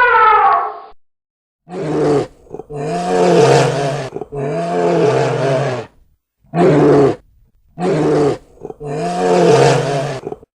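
A large animal roaring in a series of six loud, drawn-out calls, each rising and falling in pitch, with short silences between them. Before the first roar, a different falling pitched call ends about a second in.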